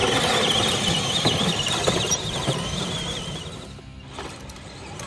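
12-volt electric drive motors of a converted pedal tractor running under load, giving a high wavering whine over gear and wheel noise that fades after about three seconds.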